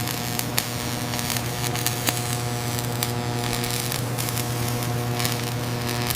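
Factory machinery ambience: a steady machine hum with several steady tones above it, broken by scattered light clicks and ticks.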